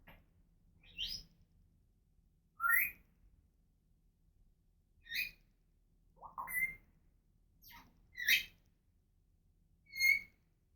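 African grey parrot giving a string of short whistles and chirps, about seven calls spaced a second or two apart, several of them rising sharply in pitch.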